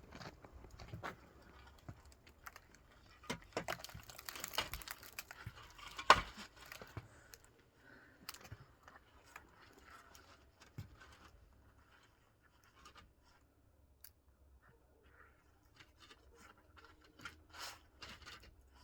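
Irregular scrapes, clicks and knocks of hand building work with blocks and mortar, busiest in the first seven seconds, with one sharp knock about six seconds in.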